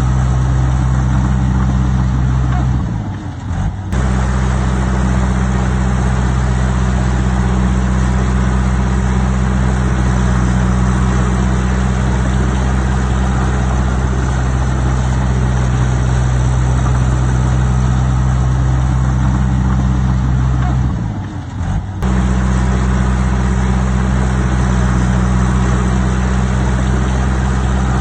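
Heavy diesel engine of earthmoving machinery running steadily at a constant pace. The sound drops briefly twice, about three seconds in and again near 21 seconds, each time cutting back in with a sharp click.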